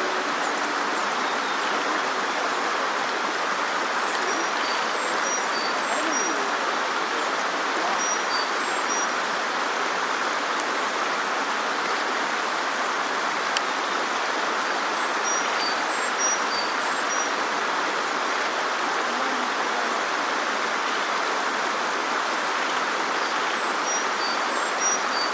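Steady rush of a mountain stream, with a small songbird singing a short phrase of high, thin notes three times, several seconds apart.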